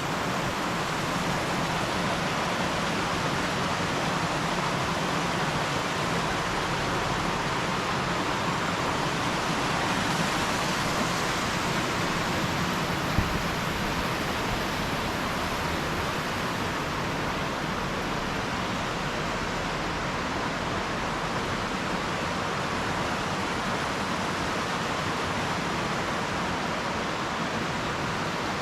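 A steady rushing noise, even and unbroken, with a single short click about 13 seconds in.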